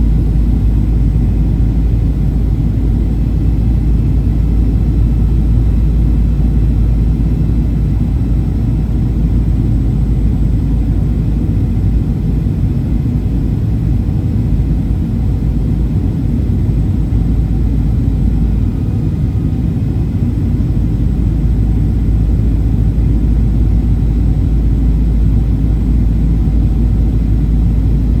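Steady low rumble of airliner cabin noise inside a Boeing 737-800: engine and airflow noise heard from a window seat, with no sharp events.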